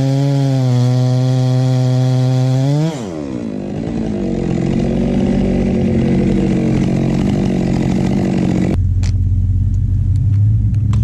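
Stihl chainsaw running at high revs, then dropping off the throttle about three seconds in and running lower and unevenly. Near the end the sound changes abruptly to a low rumble with scattered sharp knocks.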